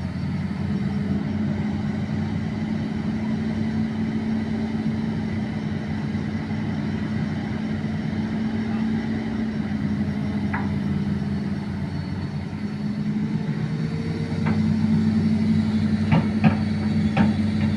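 Excavator's diesel engine running steadily, its drone rising in level about three-quarters of the way through as it takes load. A few sharp metallic knocks come near the end.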